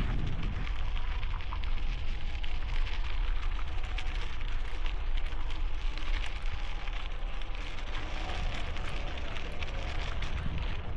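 Wind buffeting a helmet-mounted microphone with a steady low rumble, over a dense fine crackle of bicycle tires rolling on gravel.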